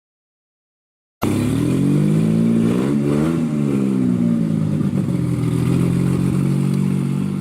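Engine starting up abruptly about a second in, given one quick rev that rises and falls, then running steadily at idle.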